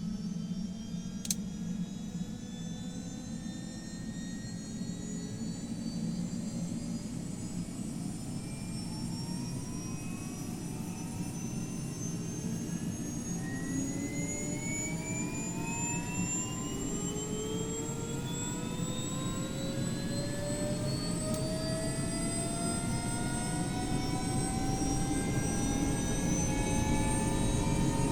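Helicopter turbine engine spooling up during start: a whine of several tones climbing steadily in pitch over a low rumble, slowly growing louder.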